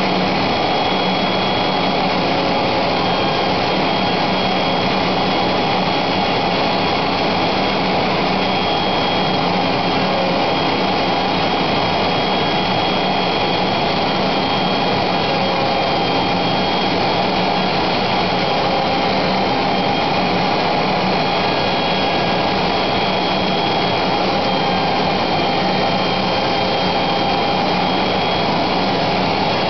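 Electric router motor running steadily at full speed, a constant high whine over a motor hum that does not change in pitch or loudness.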